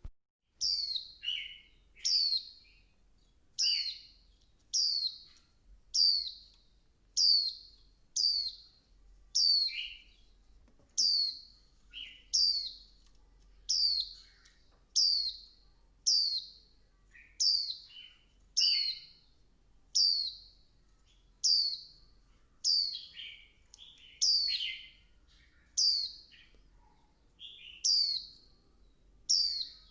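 Female white-eye (vành khuyên) calling over and over: short, high, falling notes about once every second and a quarter, some followed by a lower note. This female call is used to rouse male white-eyes into singing.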